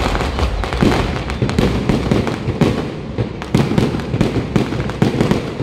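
Aerial fireworks bursting overhead: many bangs and crackles in quick succession, without a break.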